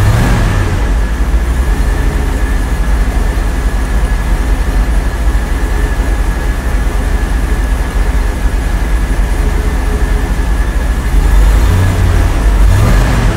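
Vector W8's twin-turbo V8 idling, heard from inside the cabin, with a steady high whine over the engine note. The engine swells briefly near the end as the revs rise a little.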